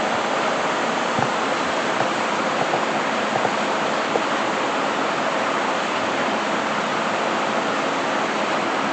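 Steady rushing hiss with faint scattered crackles, from either a welding arc or the shop's ventilation.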